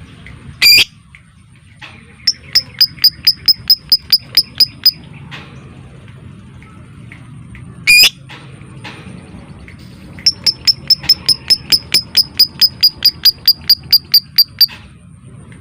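Lovebird calling: two short, loud, harsh shrieks and two runs of rapid, evenly spaced sharp ticking chirps, about four to five a second, the second run longer. This is the 'ngetik' typing-style call that lovebird keepers play to set other birds calling.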